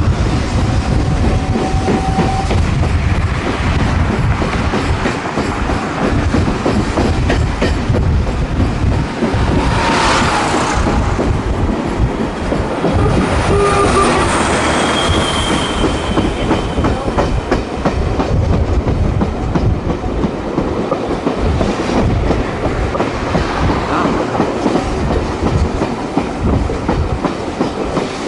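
AES-11 railcar running at speed, heard from on board: a steady rumble with wheels clattering over the rail joints.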